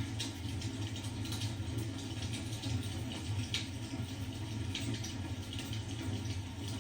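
Wood fire crackling in a fireplace: a steady low rush with irregular sharp pops and snaps.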